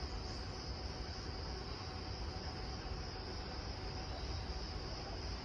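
Steady insect chorus, a continuous high chirring of crickets or cicadas that does not change, over a low rumble.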